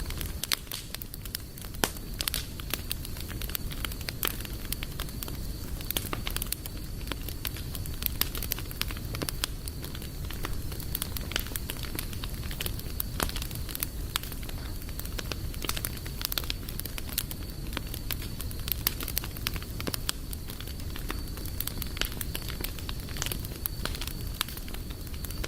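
Wood campfire crackling, with many irregular sharp pops and snaps over a low steady rumble of burning.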